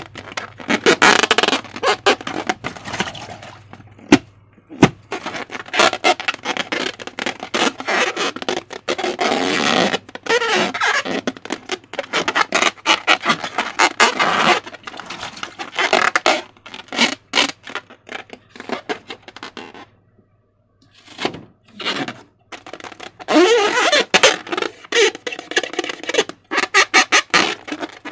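Slime and rubber balloons being handled up close: a rapid run of sticky clicks and squelches, with stretches of wavering rubbery squeaks. The sound drops out briefly past the middle, then resumes.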